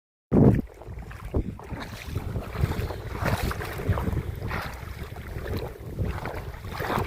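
Wind buffeting the microphone in uneven gusts over a low rumble, starting with a loud knock just after the start.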